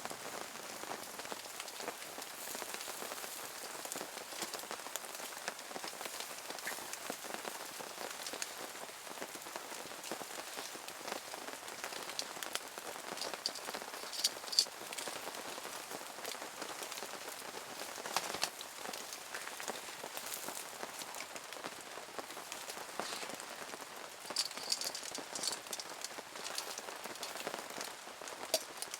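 Steady rain falling, a dense patter with louder individual drops now and then, in small clusters about halfway through and again near the end.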